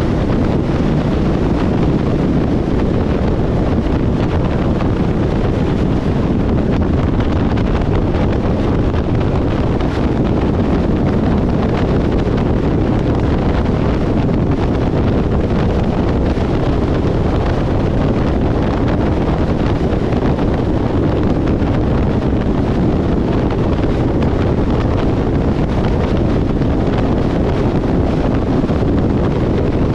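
Steady, loud rushing noise of wind buffeting the microphone, without a break.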